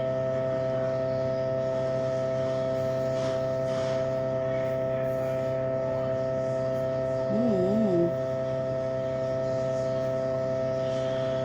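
Steady electrical hum made of several fixed tones, unchanging in level. About seven seconds in, a short wavering murmur from a person's voice rises over it.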